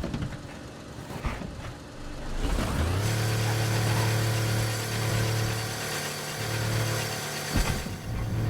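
A car starts up, a few knocks and clicks and then a rising sound, and settles into a loud, steady, pitched drone. The drone breaks off briefly with a couple of knocks near the end, then carries on.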